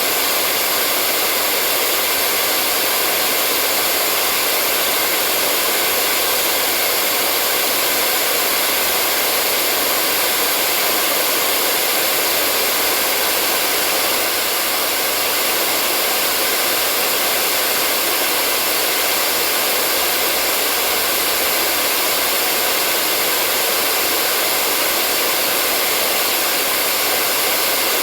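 Hair dryer running continuously: a steady, even rush of blown air with a faint motor hum, unchanging throughout.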